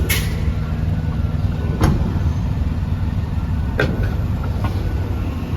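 Semi-truck engine running at low revs, a steady low rumble, with a few short sharp clicks over it.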